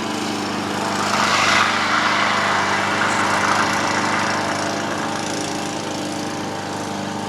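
A small engine drones steadily. A rushing noise swells about a second in and fades over the next few seconds.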